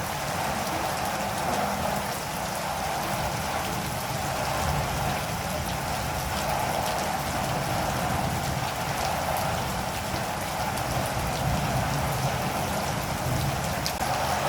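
Steady rain falling: an even hiss with scattered drop taps.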